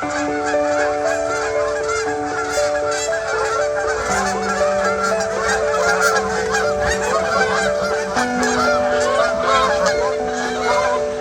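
A flock of geese honking continuously, many calls overlapping, over held musical notes that shift every few seconds.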